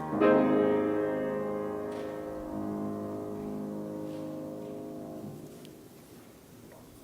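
Piano music ending: a chord struck about a quarter of a second in, with a lower note entering a couple of seconds later, rings out and fades away over several seconds.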